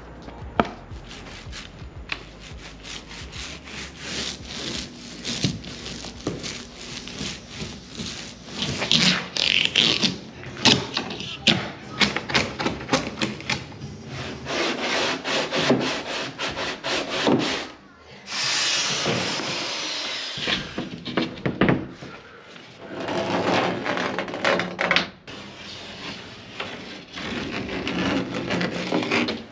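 Thick heat-reflective waterproofing paint being spread over the truck camper's shell with repeated, irregular rubbing strokes, broken by a few short pauses in the second half.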